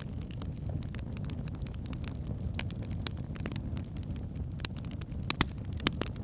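Wood fire burning in a fireplace: a steady low rumble of the flames with irregular sharp crackles and pops from the burning logs, a few louder pops near the end.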